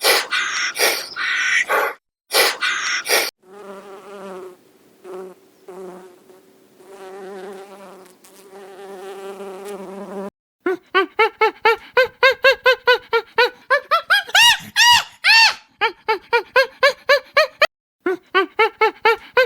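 A few loud harsh calls, then a wasp buzzing steadily for several seconds. About halfway through, a fast, loud run of short chirping calls takes over, about three or four a second.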